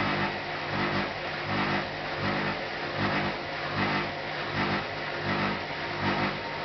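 Hotpoint NSWM 843C inverter-motor washing machine running through its rinse and spin cycle. A steady motor hum carries an even, rhythmic swell about once every three-quarters of a second as the drum turns.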